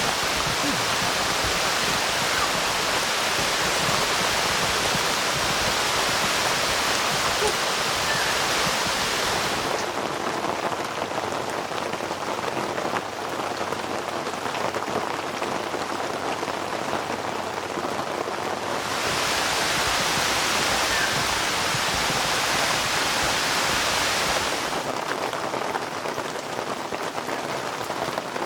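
Steady rain falling, a dense even hiss. Its character changes abruptly three times, duller about ten seconds in, brighter again a few seconds before halfway, and duller again late on.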